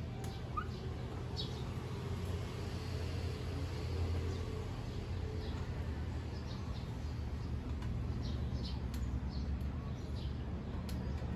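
Scattered short bird chirps over a steady low background hum, with a few faint clicks.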